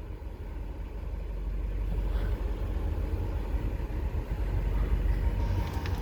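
2010 Dodge Challenger SRT-8's 6.1-litre HEMI V8 idling steadily with a low, even rumble.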